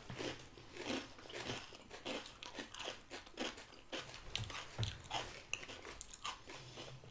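Close-up chewing of crunchy chatpate, a spicy Nepali puffed-rice snack, with short crunches about twice a second.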